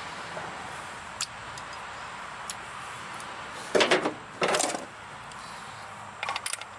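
Small metal tools and bolts clinking and clattering: a faint click, two short loud clattering bursts around four seconds in, and a brief rattle near the end.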